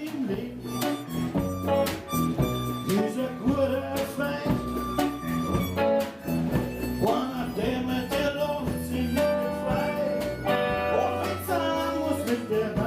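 Live acoustic guitar strummed in a steady rhythm, with a harmonica playing the melody over it: an instrumental passage with no singing.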